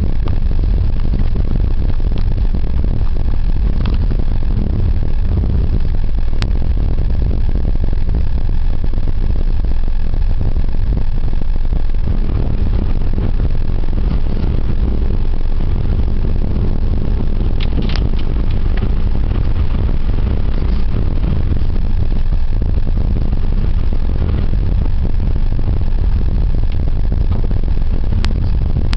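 Car driving along a snow-covered road: a steady low rumble of engine and tyres, with a few brief clicks.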